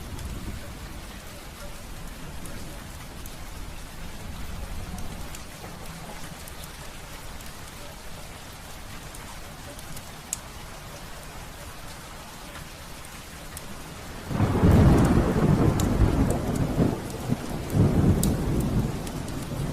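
Heavy rain falling steadily, then a loud clap of thunder about fourteen seconds in that rumbles on for a few seconds, swelling again near the end.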